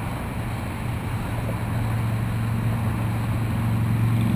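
Parrot AR.Drone quadcopter's rotors humming steadily in flight with its battery low, growing gradually louder toward the end.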